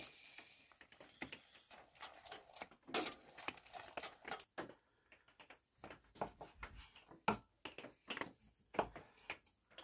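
Irregular light clicks and knocks of kitchen utensils on cookware, a few each second, with a louder clack about three seconds in and a couple more near the end.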